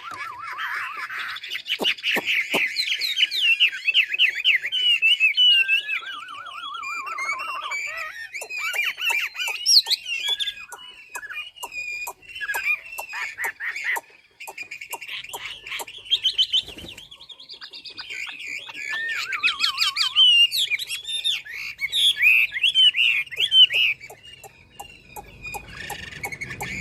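Chinese hwamei (họa mi) singing a long, varied song of fast warbled phrases, slurred whistles and rapid trills, broken by short pauses about halfway through and again near the end.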